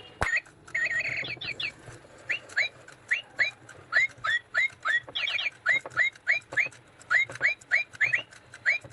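Battery-operated toy bird chirping: a long run of short, upward-hooked whistled chirps, about three a second, broken by two quick trills, after a single sharp click near the start. A faint low hum runs underneath.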